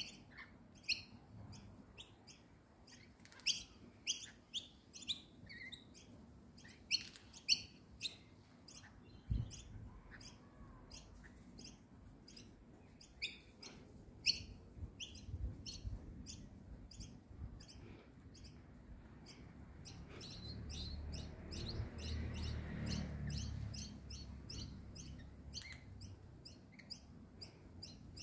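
Small birds chirping, a rapid string of short, sharp calls, with a low rumble underneath for a few seconds about two thirds of the way in.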